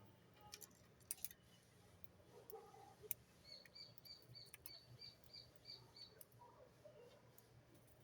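A bird calling faintly: a quick run of about nine short high notes at roughly four a second, in the middle of the stretch. A few sharp clicks come before it.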